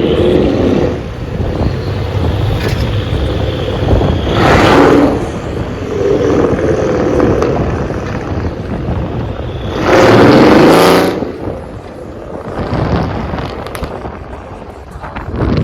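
Twin-turbo Mercedes engine running through an exhaust with no catalytic converters or resonators, pulling hard. Two loud surges come about four and a half seconds and ten seconds in, over a steady low drone.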